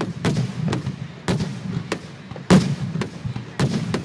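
Aerial fireworks shells bursting in a rapid finale barrage, recorded on a phone's microphone: a string of sharp bangs about three a second, the loudest about two and a half seconds in, over a steady low rumble.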